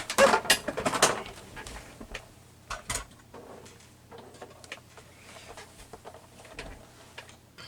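Paper craft materials and small tools being handled on a tabletop: a quick run of clicks and rustles in the first second, then quieter scattered taps and rustling with a couple of sharper ticks about three seconds in.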